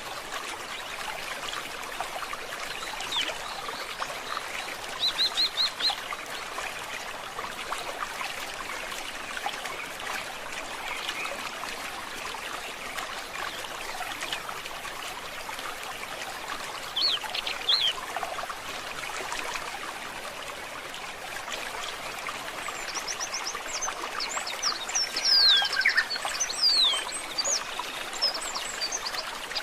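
Forest stream trickling steadily, with small birds calling over it: a quick run of high chirps about five seconds in, a few notes near the middle, and a busier burst of twittering, sweeping calls toward the end.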